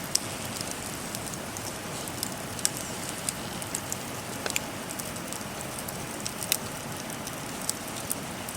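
Firewood burning in a fire pit: a steady hiss with irregular sharp crackles and pops.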